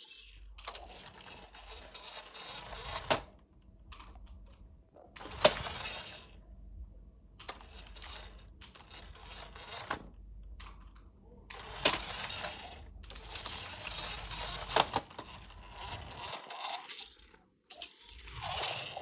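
Toy trucks being handled and moved about: scraping and rattling in spells, with a few sharp clacks of the toys knocking together or against a surface.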